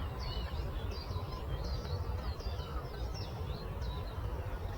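Small songbirds chirping: many short, high, quickly falling notes in fast succession, thinning out near the end, over a steady low rumble.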